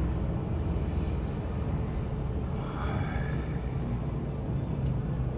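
Steady low engine and road rumble inside a truck's cab while driving slowly.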